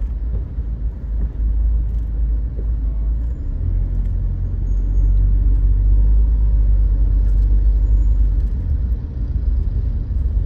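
Car driving in slow traffic: a steady low rumble of engine and road noise, with no distinct events.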